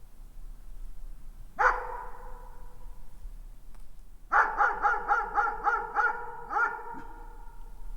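A dog barking in the distance, echoing: a single bark about a second and a half in, then a quick run of about eight barks, some four a second.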